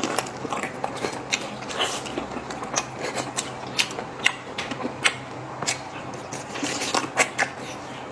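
Close-up eating sounds: irregular wet clicks and smacks of chewing, a few a second, some sharper than others.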